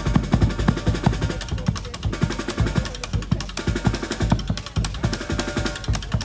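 Street musicians playing live, led by fast, steady drumming with deep bass-drum beats and snare strokes.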